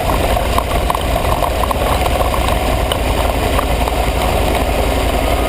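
Aprilia ETV 1000 Caponord's V-twin engine running steadily at a low, even pace.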